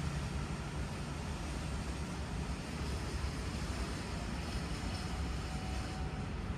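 Steady low rumble and hum of a train at a station platform, with no sudden events.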